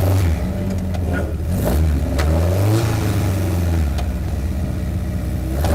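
Westfield race car's engine heard onboard at full racing pace, its revs climbing and dropping again several times, with a few sharp knocks in between.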